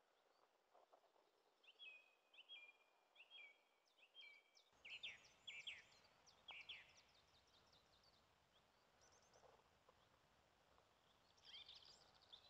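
Faint songbirds singing and chirping: a run of repeated whistled notes, then a cluster of quick chirps, and another short burst of chirps near the end.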